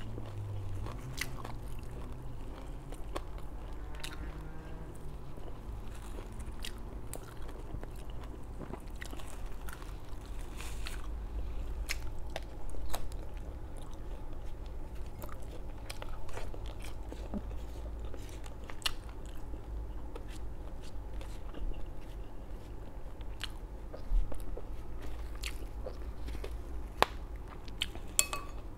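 A person chewing and biting crispy fried food close to the microphone: irregular crunches and crackles, with a few louder crunches.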